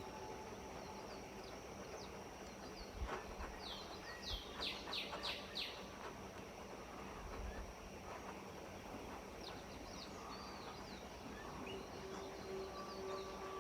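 Birds chirping faintly: short, quick downward-sliding chirps in two bouts, a few seconds in and again past the middle, over a faint steady background hiss.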